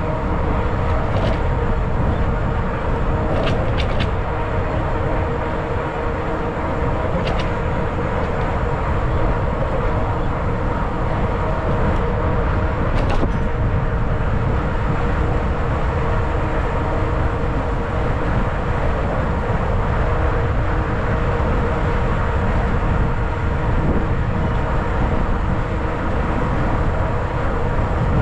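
Riding noise from a 20-inch fat-tire e-bike: wind rushing over the microphone, with a steady hum from the tyres and drive holding two even tones. A few faint clicks are heard now and then.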